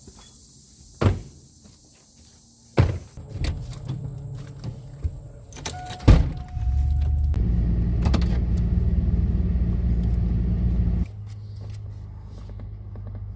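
Truck door knocks and keys jangling, then the truck's engine starts about six seconds in and runs loud and steady, dropping to a quieter idle near the end.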